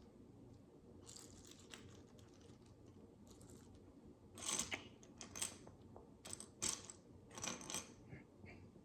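Micro bricks (miniature plastic building bricks) being handled: quiet clicks and rattles, faint at first, then a run of them in the second half.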